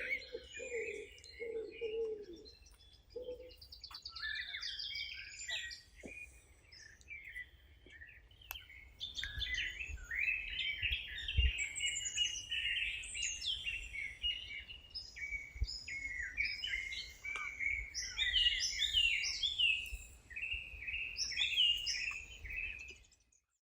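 Several songbirds chirping and singing, with a low cooing call, typical of a dove, repeated about five times in the first few seconds. The birdsong thickens into a dense chorus from about nine seconds in and fades out at the very end.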